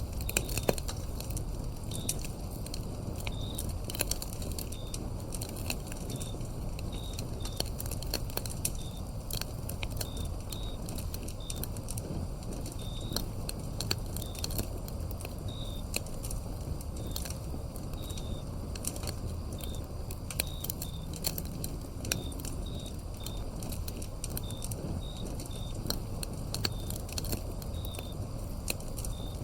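Wood fire burning with a low steady rustle and frequent irregular crackles and pops, over crickets chirping in short repeated notes.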